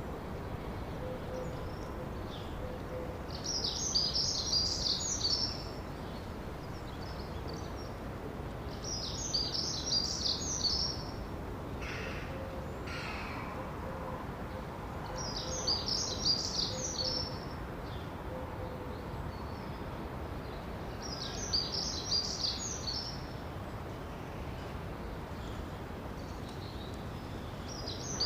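A songbird singing the same short, high phrase over and over, about once every six seconds, with a steady hiss of outdoor background noise underneath.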